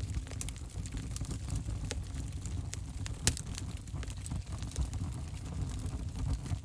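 Wood fire in a fireplace burning with a steady low rumble and scattered sharp crackles and pops, one louder pop a little past halfway.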